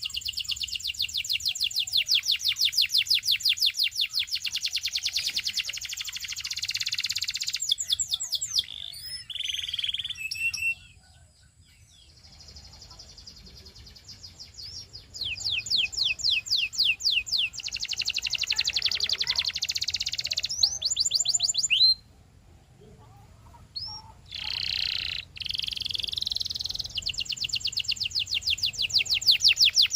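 Domestic canary singing: long, high, rolling trills of rapidly repeated notes, delivered in phrases with two short pauses, about a third and about three quarters of the way through.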